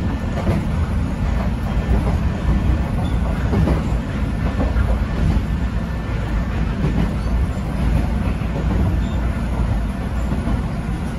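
Electric train running on a single-track line, heard from inside the car: a steady low rumble of the running gear, with faint scattered clicks from the wheels on the rails.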